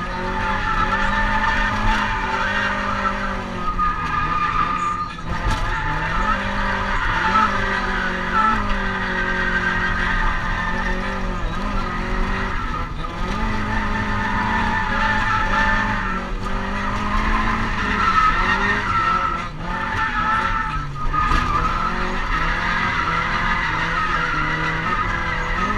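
Mazda MX-5 NA6 being drifted, heard from inside the cabin: its 1.6-litre four-cylinder engine running at high revs, the pitch rising and falling repeatedly with a few brief dips, over steady tyre squeal.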